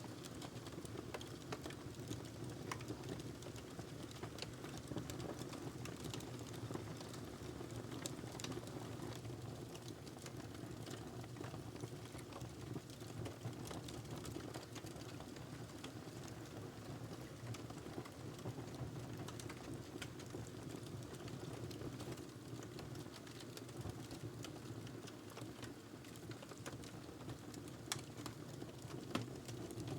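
Wood fire crackling in a fireplace: many small irregular pops and snaps over a low steady rumble of the flames, with a couple of sharper pops near the end.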